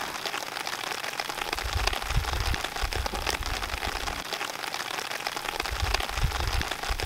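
Rain pattering: a steady hiss of many fine drop ticks, with low rumbles twice.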